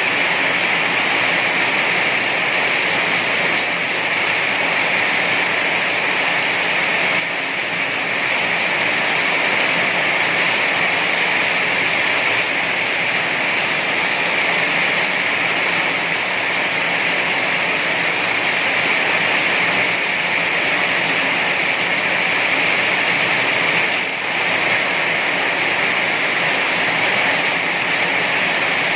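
Heavy rain falling steadily, a dense even hiss with no breaks, dipping slightly twice.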